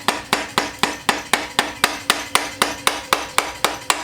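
A hammer tapping rapidly and evenly on metal, about four ringing strikes a second, to drive out a Woodruff key.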